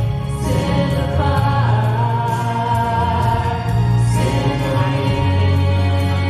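Live gospel song: voices singing long held notes over a steady instrumental accompaniment with a strong bass.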